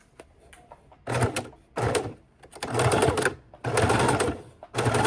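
Sewing machine stitching in short stop-start runs: after a few faint clicks, five bursts of a second or less, sewn slowly to ease the binding around a corner.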